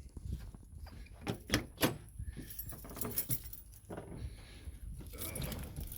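Keys jangling among a series of sharp clicks and knocks, with no engine running.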